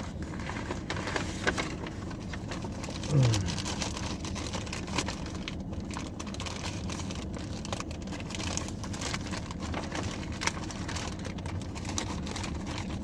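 Steady low rumble with light rustling and clicks of food packaging being handled, and a brief murmur of a voice about three seconds in.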